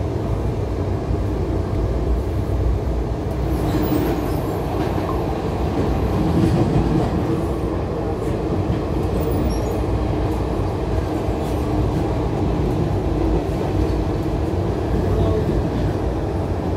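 Moving passenger train heard from inside the carriage: the steady, unbroken rumble of the coach running along the track.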